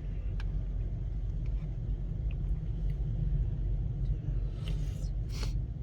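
Steady low rumble, with a few light clicks and two short rustles near the end.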